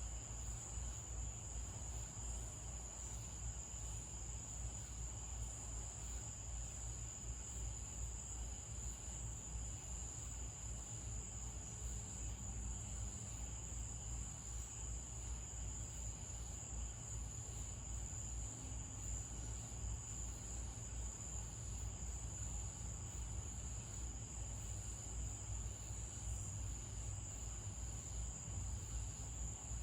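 A steady, unbroken night-time insect chorus, a high continuous trill, over a low steady rumble.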